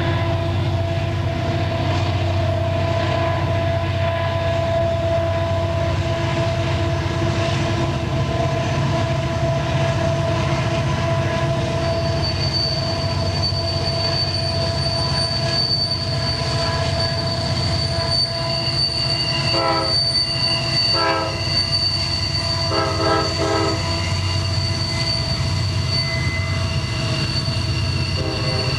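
A diesel train going by with its engines rumbling steadily. A high steel wheel squeal starts about twelve seconds in and keeps on, and several short horn blasts sound past the middle, with one more near the end.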